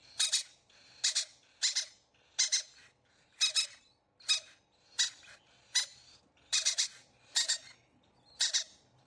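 A bird calling in short, sharp, high-pitched squeaks, repeated about once or twice a second, some in quick pairs.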